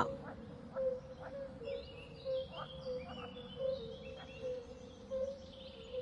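Quiet outdoor ambience: short bird chirps and whistles over a steady low tone that pulses softly about twice a second.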